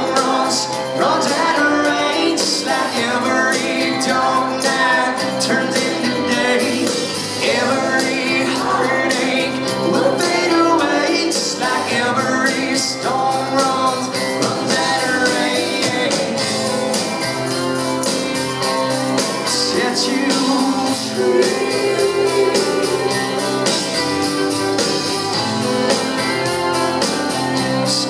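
Live country band playing loudly and steadily at full volume, with drums and cymbals keeping a fast, even beat under pitched instruments and some singing.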